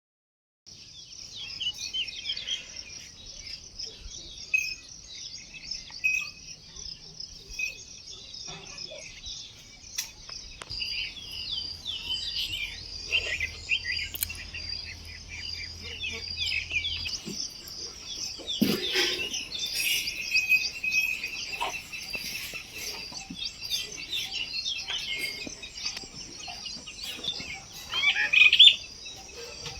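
Many birds chirping and calling together in a dense chorus, with a steady high insect trill underneath.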